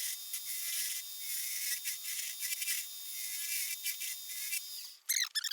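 A lathe tool cutting a spinning hickory blank: a steady, high-pitched scraping hiss that stops about five seconds in, followed by a few short squeaks.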